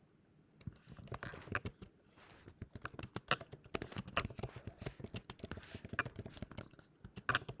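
Typing on a computer keyboard: a run of irregular keystrokes that starts about half a second in.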